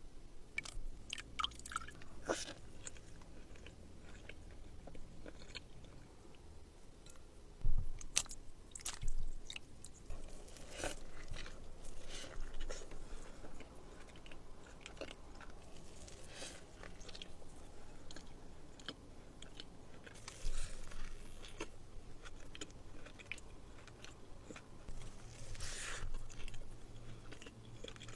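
A person chewing and biting into food close to the microphone, with crunchy crackles and wet mouth sounds. A sharp knock comes about eight seconds in.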